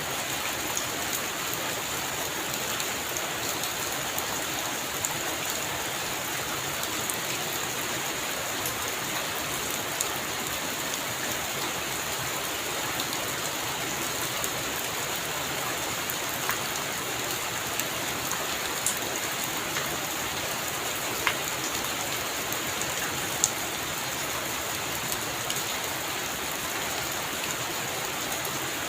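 Heavy rain falling steadily on a roof, with a few sharper, louder drop hits now and then. No thunder is heard.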